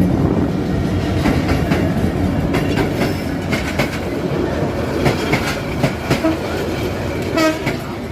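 Train running on the rails: a steady rumble with repeated sharp clacks of the wheels over rail joints. A short wavering high-pitched sound comes near the end.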